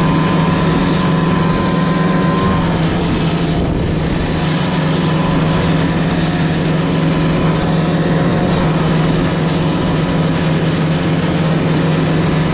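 Snowmobile engine running at a steady speed, a constant engine drone with a slight change in tone about three seconds in.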